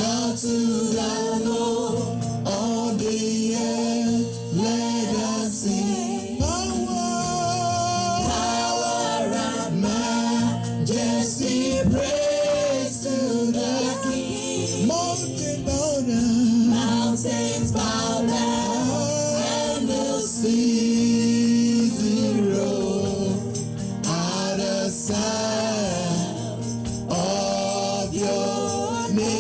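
Gospel music with singing over instrumental accompaniment.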